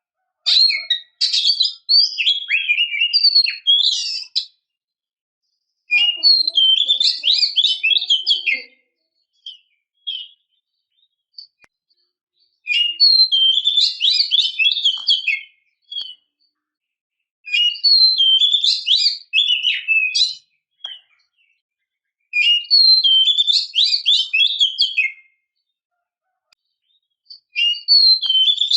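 Oriental magpie-robin (kacer) song in six bursts of rapid, varied whistles and chirps, each about three seconds long with short pauses between. The uploader presents the singer as a female in breeding condition calling to a male.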